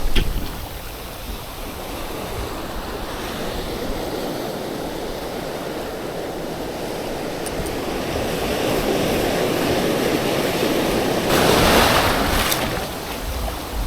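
Surf washing onto the beach in strong wind, with wind buffeting the microphone; the wash swells and one wave breaks loudly about three-quarters of the way through.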